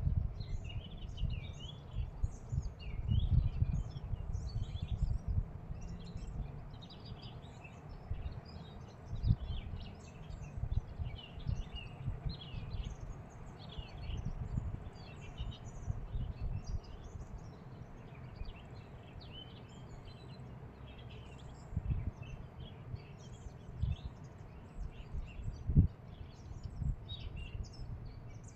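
Many small birds chirping and twittering continuously outdoors, over irregular low rumbles and thumps on the microphone, the loudest near the start and just before the end.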